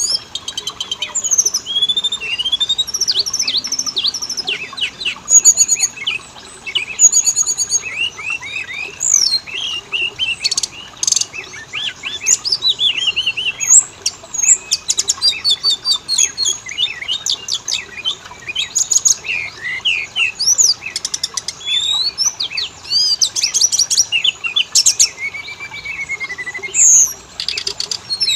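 Oriental magpie-robin singing nonstop: a fast, varied string of clear whistles, rising and falling slurs, rapid trills and sharp clicking notes.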